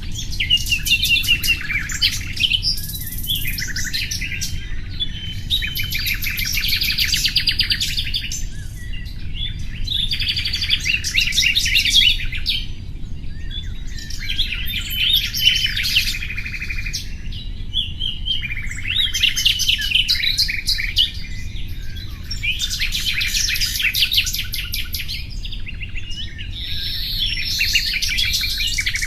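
Nightingale singing: a string of song phrases a few seconds long, made of rapid repeated notes and trills, with short pauses between them, over a steady low background hum.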